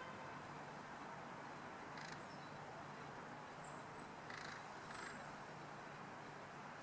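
Steady, low town background noise with a few short bird calls, one about two seconds in and two more about four and a half and five seconds in, plus thin high chirps near the middle.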